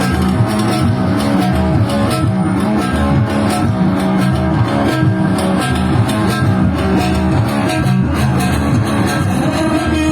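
Band music without singing: plucked guitar lines over bass guitar, at a steady loud level.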